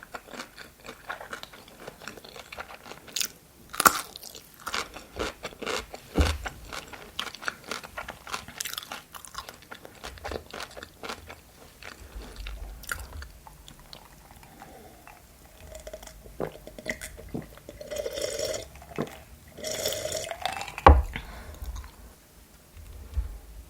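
Close-miked chewing and crunching of food from a mukbang of chicken nuggets, cheese sauce and pickles. There are crisp, dense crunches through the first half. Softer, wetter chewing follows, and a sharp click comes near the end.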